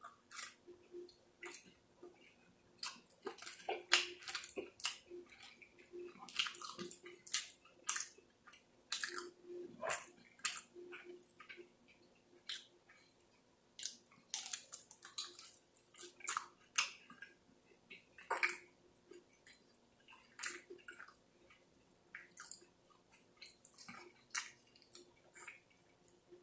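Close-up wet chewing and lip smacks of someone eating, as irregular short smacks and clicks with brief pauses between bites.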